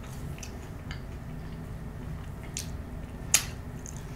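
Close-miked chewing of a ketchup-dipped french fry, soft and wet, with small mouth clicks and one sharp click a little after three seconds in.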